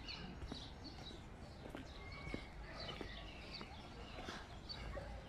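Faint, scattered chirps of small birds over a quiet outdoor background.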